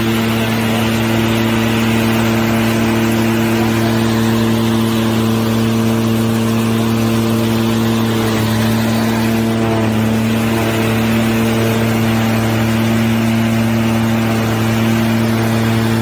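Engine of a self-propelled hay baler running at a constant speed, a steady even hum with no change in pitch.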